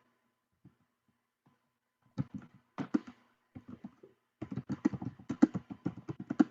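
Typing on a computer keyboard: a few separate keystrokes from about two seconds in, then a quick run of keys over the last two seconds.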